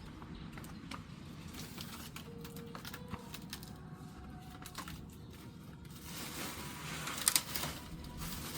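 Faint, short bird calls over a low background rumble, with scattered light clicks. From about six seconds in, a rushing noise swells, loudest just after seven seconds.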